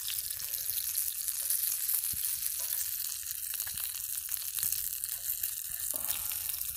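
Breaded fish fillets frying in hot oil: a steady sizzling hiss with scattered small pops.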